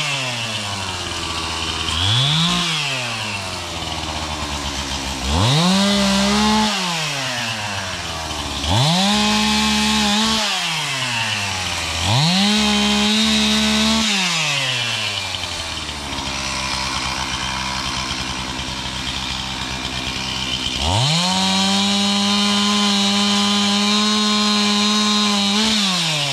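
Two-stroke chainsaw running, revved to full throttle and let back to idle several times. There is a short blip about two seconds in, three longer runs at high revs, a longer stretch at idle, and a final long rev near the end.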